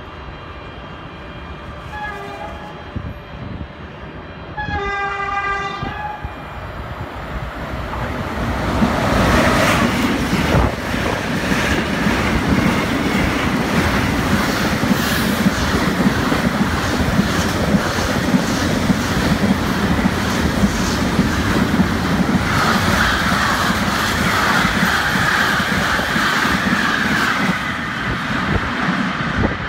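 E405 electric locomotive sounding its low-tone horn twice, a short blast and then a longer, louder one. A long freight train then runs through close by, a loud steady rumble with the rhythmic clickety-clack of wheels over the rail joints, for about twenty seconds before easing off near the end.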